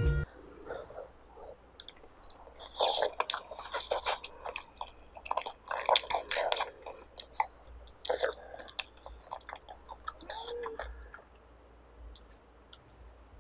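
Close-miked ASMR chewing of chueotang (Korean loach soup) thick with greens: wet mouth clicks and smacks coming in clusters, dying down after about eleven seconds.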